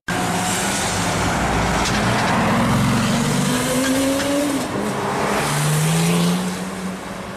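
Bugatti Veyron Super Sport's quad-turbocharged W16 engine accelerating hard: the pitch climbs, drops at an upshift about four and a half seconds in, then climbs again before easing off near the end.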